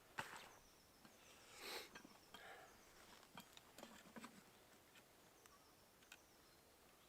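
Near silence with a few faint rustles and small clicks; one rustle, a little louder, comes about two seconds in.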